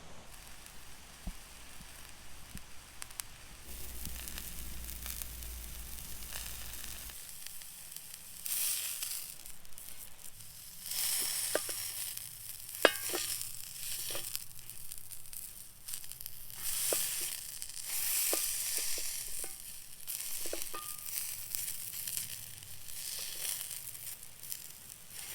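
Turkey sausage patty sizzling in a cast iron skillet over a campfire. The sizzle swells and fades in waves from about a third of the way in, with scattered sharp pops and one loud crack near the middle.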